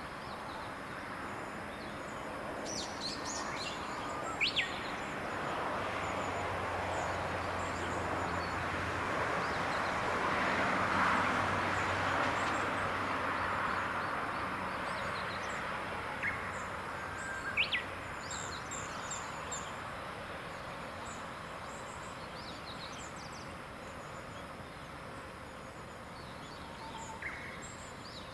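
Short bird chirps and calls scattered over a steady high insect drone. A distant engine with a low hum slowly swells, louder near the middle, and fades away.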